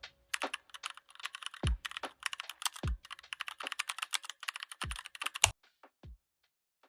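Computer keyboard typing: a fast run of key clicks with a few heavier key thuds among them, stopping about five and a half seconds in, followed by a couple of last taps.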